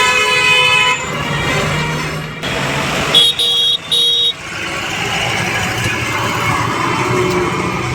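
Road traffic with vehicle horns: a horn sounds for about the first second, then two short toots about three seconds in, over steady engine and road noise.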